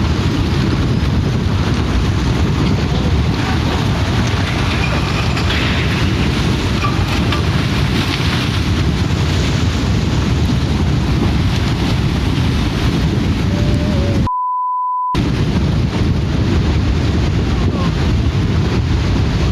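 Loud, steady rushing noise, like violent wind and water on the microphone. About fourteen seconds in, it is cut for under a second by a single steady censor beep.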